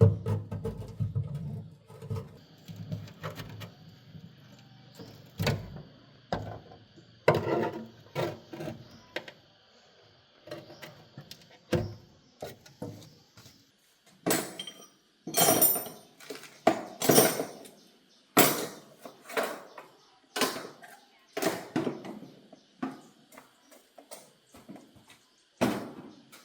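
Irregular knocks, clicks and clatter of car parts and tools being handled during disassembly, at uneven intervals, busiest in the second half.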